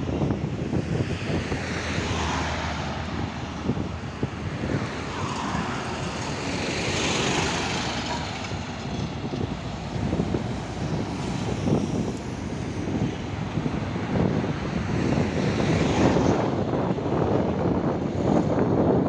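Highway traffic with trucks passing, the noise swelling and fading as each vehicle goes by, several times over.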